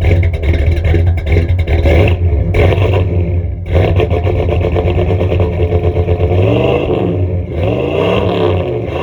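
Ford 460 big-block V8 with a Holley 750 carburettor running through a single 2.5-inch Magnaflow exhaust, with a steady deep rumble. Starting about two-thirds of the way in, the throttle is blipped three times, the revs rising and falling back each time.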